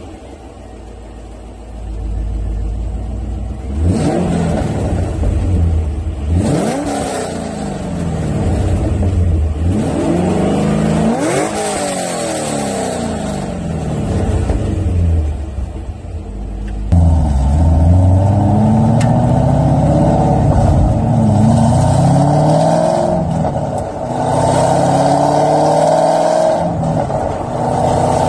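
C5 Corvette Z06's LS6 V8, with long-tube headers, test pipes and an off-road X-pipe, idling just after start-up and then revved in several quick blips, the pitch rising and falling. About halfway in it turns suddenly louder, and the pitch climbs again and again.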